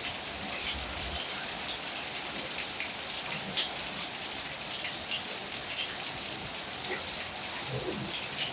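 Steady heavy rain falling, with many individual drops striking a nearby surface.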